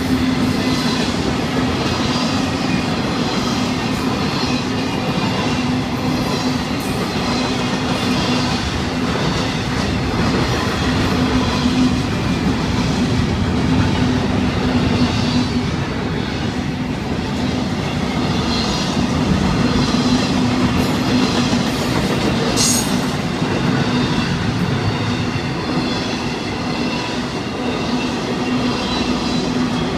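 Long intermodal freight train of double-stack container cars and trailer flatcars rolling past a grade crossing, a steady loud noise of steel wheels on the rails. One brief sharp high sound cuts through about two-thirds of the way in.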